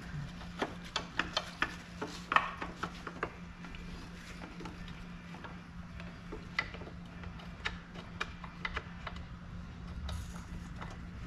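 Irregular metal clicks and clinks from hand tools and bolts being worked on the seat suspension's steel parts, thickest in the first few seconds and sparser after, over a steady low hum.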